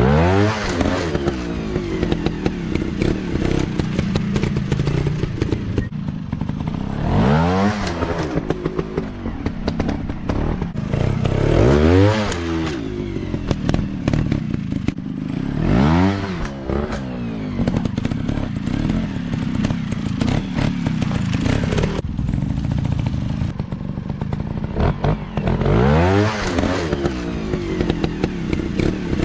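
Off-road dirt bike engines running, revved up and back down about five times so the pitch rises and falls, with clattering and thumps over rough ground.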